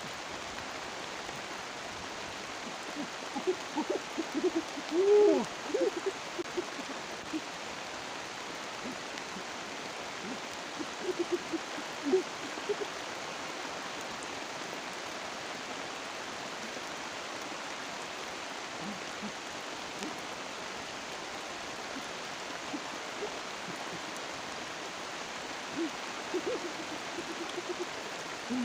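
Steady hiss of water throughout, with three scattered clusters of short, warbling low notes over it.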